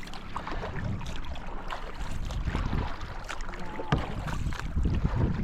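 Water splashing and sloshing around a kayak being paddled, with wind rumbling on the microphone and scattered small knocks.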